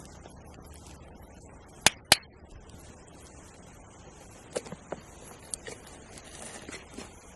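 Two sharp clicks about a quarter second apart, roughly two seconds in, then a few fainter clicks and taps over a faint steady hiss.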